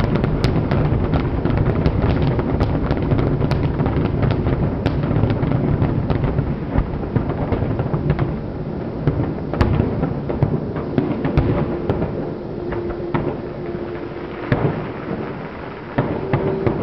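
Fireworks display: a dense, continuous rumble of booming bursts and crackling shells, thinning to scattered bangs in the second half, where a steady tone also sounds.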